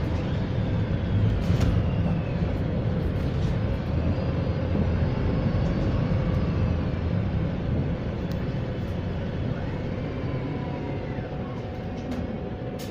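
Wright StreetLite single-deck bus heard from inside: a steady low engine and road rumble, with faint whining tones gliding up and down over it, the odd noise the bus makes while slowing. The rumble eases a little near the end.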